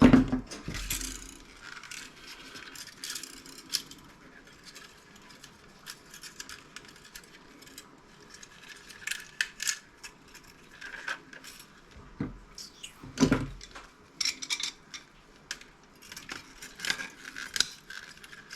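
Scattered clinks, taps and rattles of a CRT monitor's deflection yoke being pulled apart by hand, ferrite and copper-wound pieces knocking together, with a heavier knock at the start and another about two-thirds of the way through.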